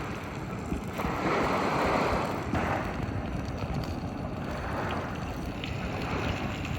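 Small lake waves washing onto a beach, swelling and fading, with wind rumbling on the microphone.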